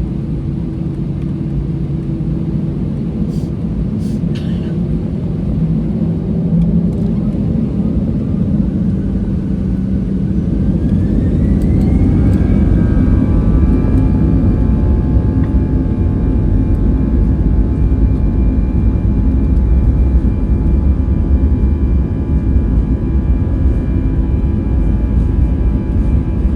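Airbus A320-214's CFM56 turbofan engines heard from inside the cabin spooling up to takeoff thrust: a whine rises in pitch about ten seconds in and then holds steady, over a low rumble that grows louder. A few light clicks early on.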